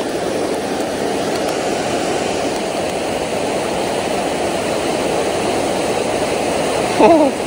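Creek water rushing steadily, an even, unbroken rush.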